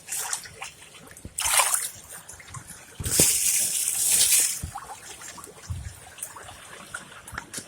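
Floodwater in a vehicle's back floorboard splashing and sloshing as it is scooped and stirred out, in two bursts, a short one and then a longer one, with small trickles and drips between.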